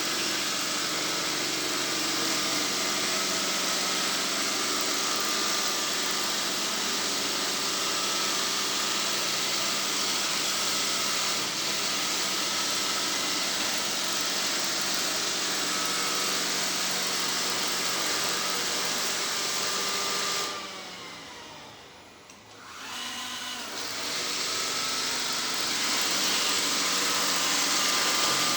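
Motorized sweeping machine running with a steady hum and hiss. About two-thirds of the way through its motor winds down, nearly stops, then spins back up to full speed.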